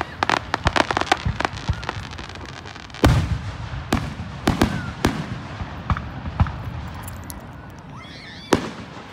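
Fireworks going off: a quick string of crackling pops in the first two seconds, one heavy boom about three seconds in, then scattered single bangs.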